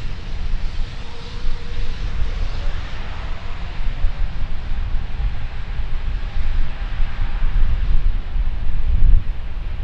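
Jet airliner engines running, a steady rushing noise with a faint whine that slides slowly in pitch, over a heavy low rumble of wind buffeting the microphone.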